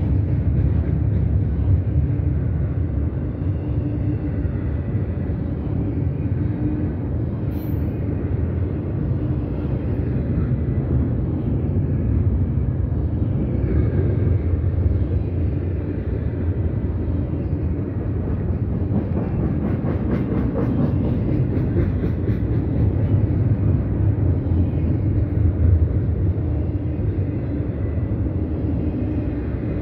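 Double-stack intermodal freight train's well cars rolling past: a steady heavy rumble of steel wheels on rail, with a run of rapid clicks about two-thirds of the way through.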